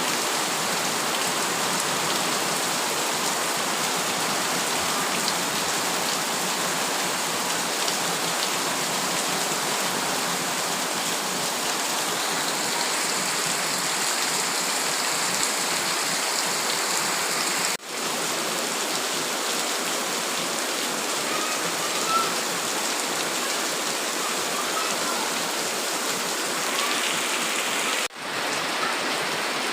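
Heavy rain falling steadily as a dense, even hiss. It drops out abruptly for a moment twice, past the middle and near the end.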